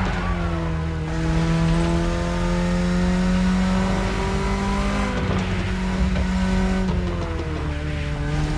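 BMW E30 engine pulling under load while driving, its pitch climbing slowly for about five seconds, dipping briefly, then falling away from about seven seconds in as the revs drop.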